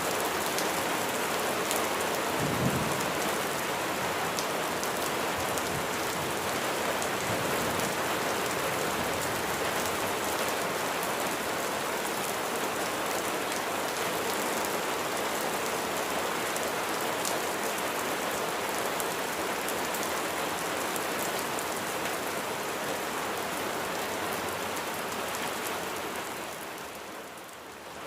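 Steady heavy rain, with a short low rumble of thunder about two and a half seconds in. The rain dips in level briefly near the end.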